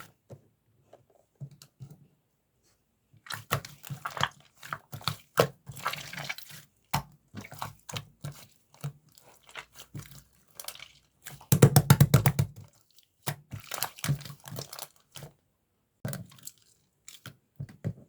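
Slime being squeezed and pressed by hand, giving irregular sticky crackles and clicks. About twelve seconds in there is a louder, rapid run of pops.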